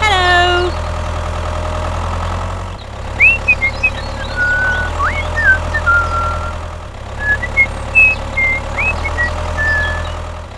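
Tractor engine idling sound effect, a steady low running that breaks off and restarts about 3 and 7 seconds in. From about 3 seconds in, short high chirping whistles come and go over it. A brief voice-like call trails off at the very start.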